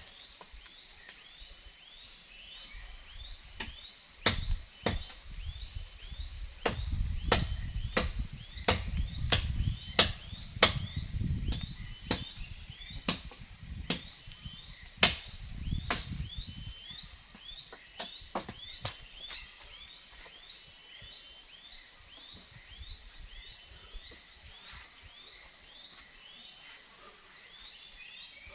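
Irregular strikes of a blade chopping into wood, sometimes in quick runs, stopping a little after halfway. A steady high insect drone with short repeated chirps goes on behind throughout.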